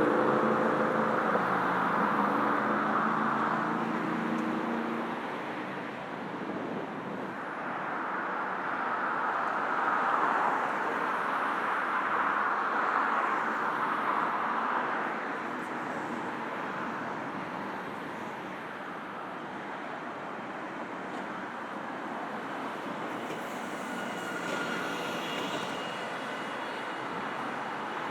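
Road traffic on a busy multi-lane city road: vehicles passing, the tyre and engine noise swelling and easing in waves, loudest near the start and again midway.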